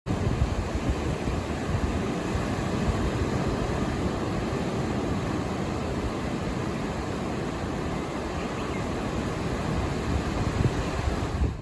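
Ocean surf washing steadily under wind buffeting the microphone, with gusts a little stronger near the start and end.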